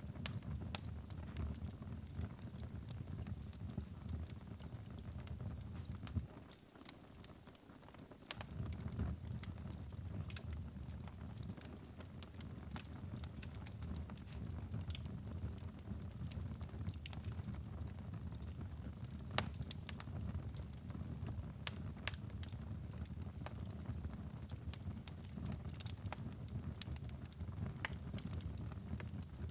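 Wood fire burning in a fireplace: a steady low rumble of flames with frequent sharp crackles and pops. The rumble briefly drops away about six and a half seconds in, then comes back.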